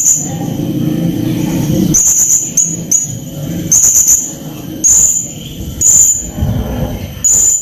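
Blue-crowned hanging parrot (serindit) giving a series of short, shrill, high-pitched calls, roughly one a second. A low rumble runs underneath for the first two seconds.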